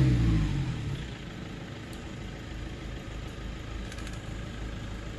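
Vehicle engine idling, with a brief rise and fall in engine pitch about the first second before it settles into a steady low hum.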